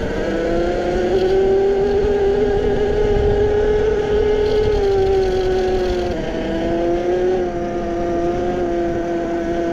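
Yozma IN 10 Pro electric mini dirt bike riding up a trail, its 550 W mid-drive motor whining. The pitch rises at the start, holds, then drops a step about six seconds in as the bike eases off, over a low rumble.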